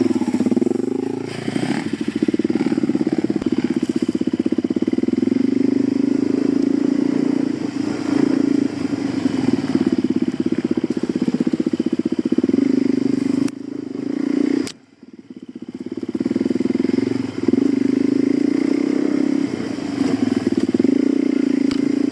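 Suzuki DR-Z400 single-cylinder four-stroke dirt bike engine running steadily as the bike is ridden along a bush trail. About fifteen seconds in, two sharp clicks come just before the engine sound drops away briefly, then it picks up again.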